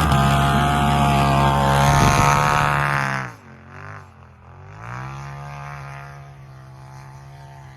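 Off-road vehicle engine held at high, steady revs, then dropping sharply in level and pitch about three seconds in and settling to a quieter, steady run.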